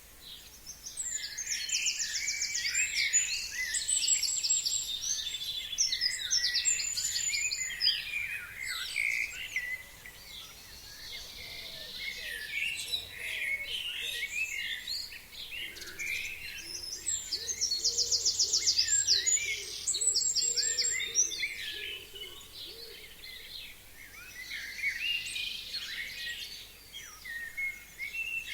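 A chorus of several forest birds singing, many overlapping chirps and short songs. A fast, dense run of repeated notes stands out twice, near the start and again past the middle, the second time loudest.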